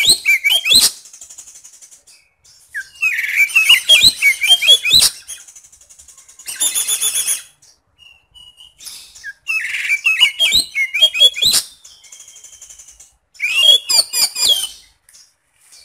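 Oriental magpie-robin (kacer) singing loud, rapid, varied phrases in five bursts separated by short pauses. The song is mixed with harsh, buzzy mimicked notes, the rough "isian kasar" style; the middle phrase is one such buzzy, pulsing run.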